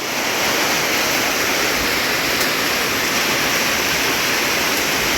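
Steady rush of flowing water, an even hiss that comes up at the start and holds level.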